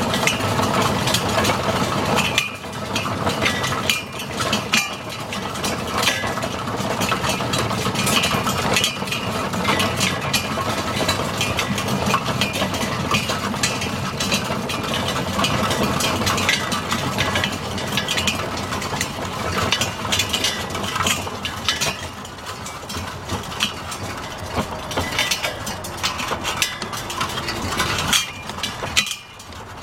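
Quarter-scale Gar-Scott steam traction engine running, with a steady mechanical clatter and many small clinks from its engine and gearing.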